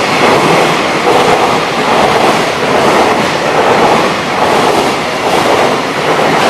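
A train running on rails, a loud steady noise with no clear clatter rhythm.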